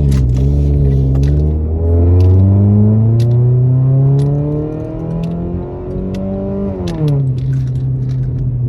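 Straight-piped 2016 Ford Focus exhaust, with no muffler or resonator, rising in pitch as the car accelerates, loudest a couple of seconds in. The revs drop sharply near the end.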